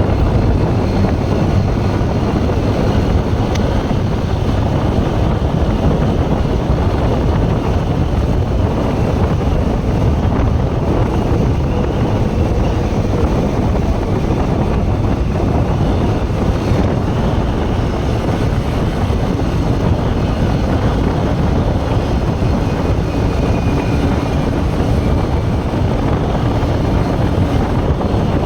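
Steady wind rush buffeting the microphone on a moving motorcycle, with vehicle and road noise underneath, unbroken throughout.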